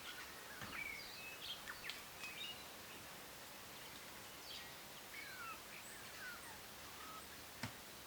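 Birds chirping, with many short calls and quick pitch glides, over a steady background hiss. There is one sharp click near the end.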